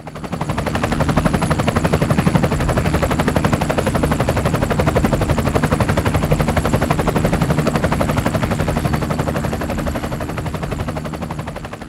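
Passing train: a rapid, even clatter of wheels over the rail with a steady low drone underneath.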